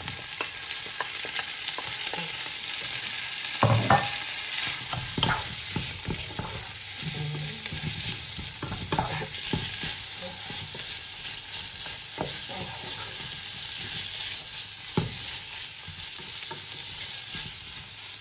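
Shredded chicken sizzling as it fries in a nonstick pot, stirred with a wooden spatula that scrapes and knocks against the pan. The sizzle is steady, with the loudest knocks about four seconds in.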